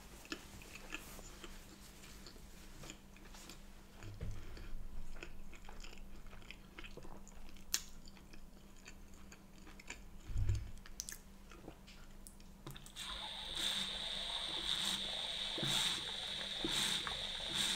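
Close-miked chewing and swallowing of food, soft wet mouth sounds with two dull low thumps. About 13 seconds in, drinking from a large plastic water bottle begins: a steady hiss with gulps.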